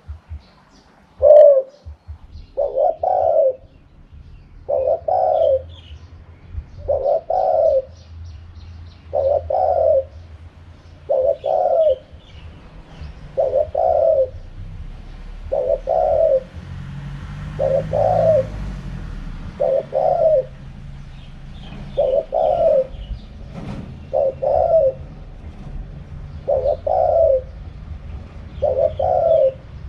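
Spotted dove cooing in its wild-type call: a short phrase of a few coos, repeated about every two seconds. Faint chirps of small birds and a low hum sit behind it.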